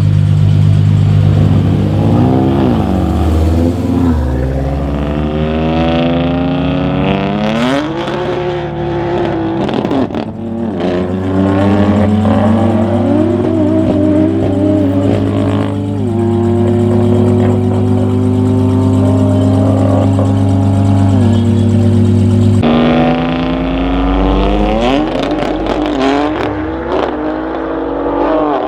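Tuned Audi RS3's turbocharged five-cylinder engine at full throttle, its pitch climbing through the gears and dropping at each upshift, then holding a high, slowly rising note for several seconds. Near the end the sound changes abruptly and the engine climbs through the gears again.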